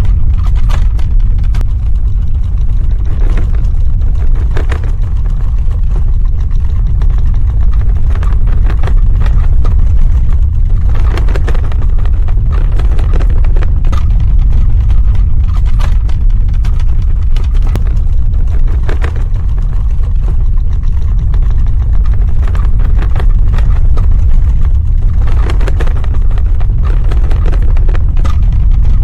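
Earthquake sound effect: a loud, continuous deep rumble with scattered bouts of crackling and rattling.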